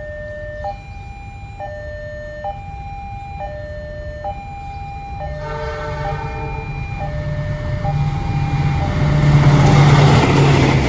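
Railway level-crossing alarm sounding its alternating two-tone signal, swapping tones about once a second. About five seconds in, a KAI diesel locomotive's multi-tone horn blows, and the approaching passenger train's engine and wheels build to a loud rush near the end.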